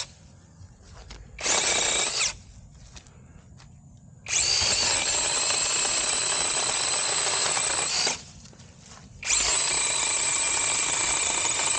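SeeSii battery-powered handheld mini chainsaw, its electric motor and chain whirring in three separate runs as the trigger is squeezed and released: a short one, a longer one of about four seconds, and a third near the end.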